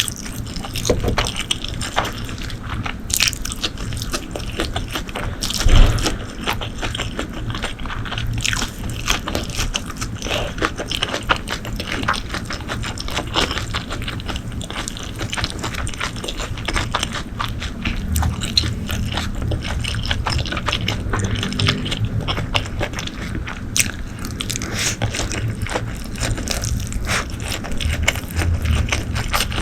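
Close-miked eating sounds: a person biting, chewing and slurping food, with many irregular crunches and wet clicks and one louder thump about six seconds in.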